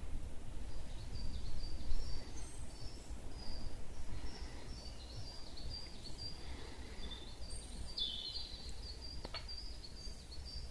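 Several songbirds singing: many short, high chirps and trilled phrases repeating throughout, over a low rumble on the microphone, with one sharp click near the end.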